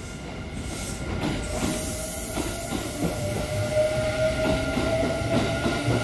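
Kintetsu electric train running alongside the platform, getting louder as its cars go by: wheels clacking over rail joints under a rumble, with a thin steady whine that rises slightly in pitch in the second half.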